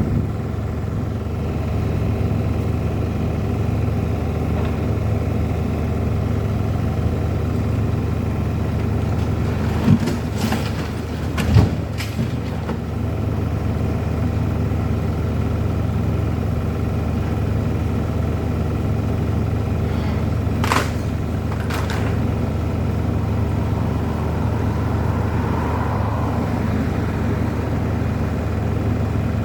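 An engine running steadily at an even speed, with a few sharp knocks or clanks about ten, twelve and twenty-one seconds in.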